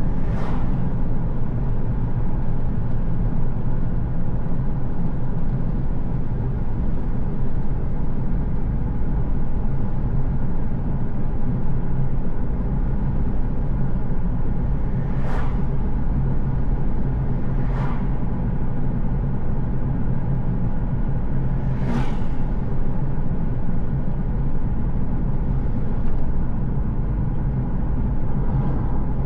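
A car driving along a road: a steady low rumble of engine and tyres, broken by a few short sharp clicks or knocks, the loudest about two thirds of the way through.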